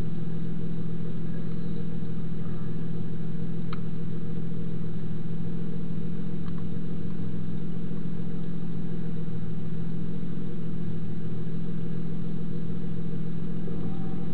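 MINI Cooper S engine idling steadily, heard from inside the stationary car's cabin, with no change in pitch.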